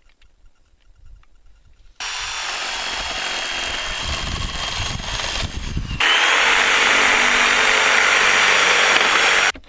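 Power drill running steadily, starting about two seconds in and getting louder from about six seconds until it stops abruptly near the end.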